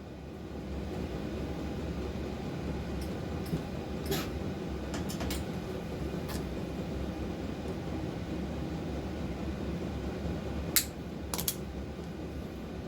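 A steady mechanical hum, like a fan or motor running, that builds up over the first second and then holds, with a scattering of sharp metallic clicks and taps, the loudest two near the end.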